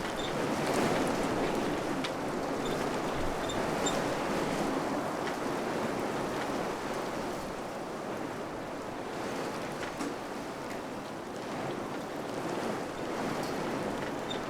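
Wind blowing through a village, a steady rushing that swells and eases gently in gusts.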